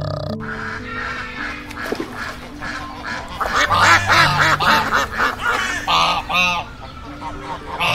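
Ruddy shelducks giving nasal, goose-like honking calls. The calls are faint at first, then come loud and rapid in quick runs through the second half.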